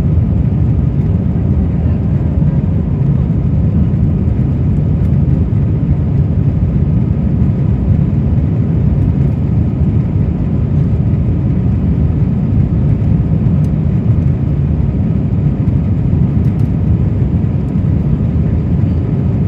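Steady jet engine and airflow roar inside the cabin of an Airbus A319 during take-off, a deep even rumble with a faint hum above it.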